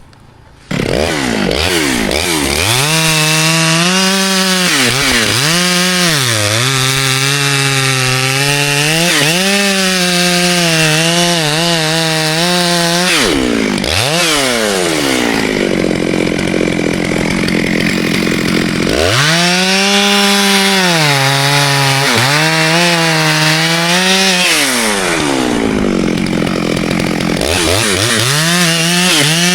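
Chainsaw running at high speed and cutting wood, its engine pitch dipping and recovering again and again as the chain bites. About halfway through the saw eases off to a lower, steadier running speed for several seconds, then is throttled up again to cut.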